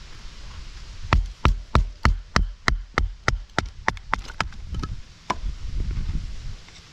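A quick, even series of about a dozen sharp knocks, roughly three a second, each with a slight ring, then one more knock a second later.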